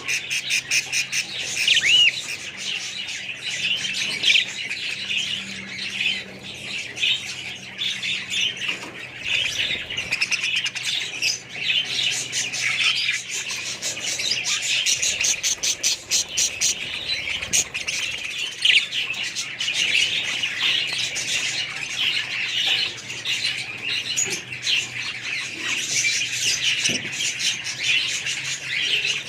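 Many budgerigars chattering and chirping at once in a dense, continuous warble of overlapping high calls.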